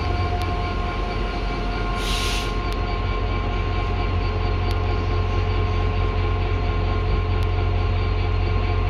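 Diesel train running steadily, a deep engine rumble under a steady whine, with a short hiss of air about two seconds in.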